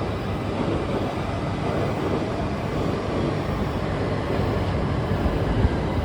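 Steady low rumble and hum on a Shinkansen platform beside a standing E3 series train that has not yet started to move.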